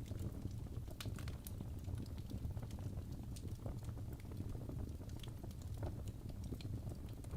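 Wood fire burning in a fireplace: a steady low rumble of flames with irregular crackles and pops from the burning logs, two sharper pops about a second in.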